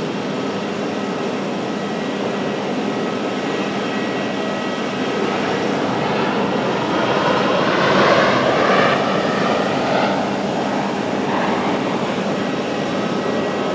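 Airliner engines heard from the airport, a steady rushing noise that swells louder about eight seconds in and then eases.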